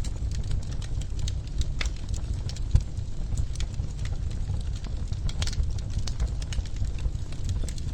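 Wood fire burning in a fireplace: a steady low rumble of the flames with irregular sharp crackles and pops from the burning logs, one louder pop a little under three seconds in.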